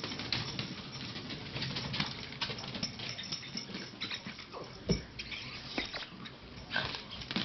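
A small dog's paws pattering quickly as it runs on the stairs: many light, rapid taps, with a louder thump about five seconds in.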